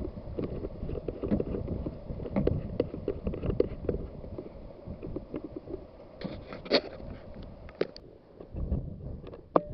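Strong wind buffeting the microphone: an uneven low rumble full of crackles, with a few sharp clicks, the loudest about seven seconds in and just before the end.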